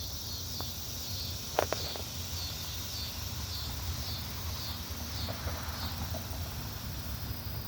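Cicadas calling in a continuous high, pulsing chorus, with a single sharp click about a second and a half in and a low rumble underneath.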